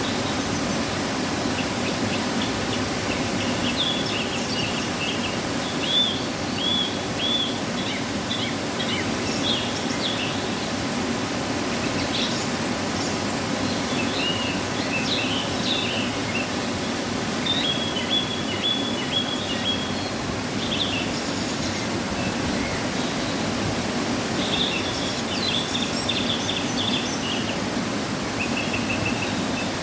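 Waterfall running full after rain: a steady, even rush of falling water. Small birds chirp over it in scattered short bursts of high calls.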